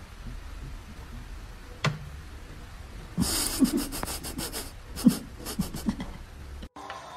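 A person's stifled, breathy laughter in short bursts over a low steady hum, with a single sharp click about two seconds in. The sound cuts off abruptly near the end.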